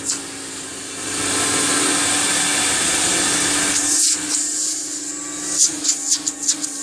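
1980 Electrolux 502 upright vacuum cleaner running on its hose with the brush roller not turning: a steady motor hum with airflow hiss. Around four seconds in, and again near the end, the suction changes and a quick series of short scraping strokes comes in, as the hose tool is worked against a surface.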